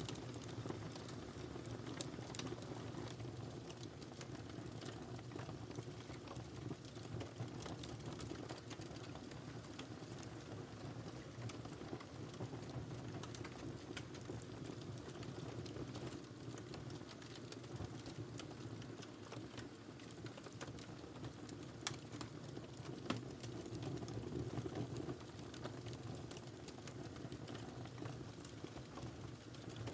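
Wood fire crackling steadily, with many small irregular pops and snaps over a low, even rush of flame.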